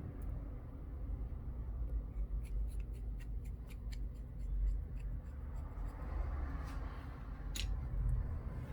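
Light scraping and a scattering of small sharp clicks and ticks from small tools and phone parts being handled, with more clicks in the middle.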